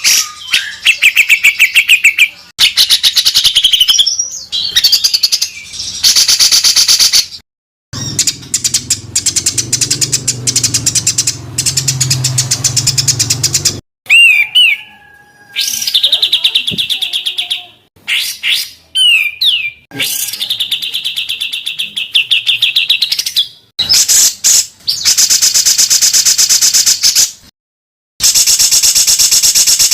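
Recorded songbirds giving rapid, harsh trills and fast repeated chattering notes, spliced one after another with abrupt cuts and brief silences between segments. One segment has a low hum underneath.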